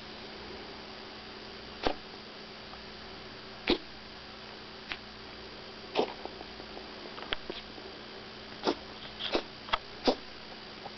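Chihuahua puppy coughing in short, sharp bursts, one every second or two, coming closer together near the end: the cough of kennel cough.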